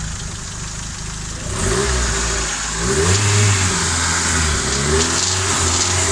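Nissan SR20DET turbocharged four-cylinder engine idling, then revved up about a second and a half in, easing off and revved again about 3 s in, where it is held at raised revs. This is a fresh rebuild, and its owner hears a rattle from the exhaust side starting around 3,000 rpm, with no play in the VTC or wastegate to explain it.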